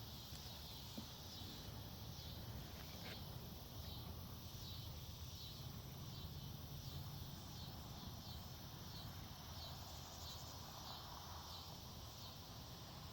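Faint woodland ambience: an insect chirping in a steady high-pitched rhythm, about two pulses a second, over a low rumble of wind, with a single small click about three seconds in.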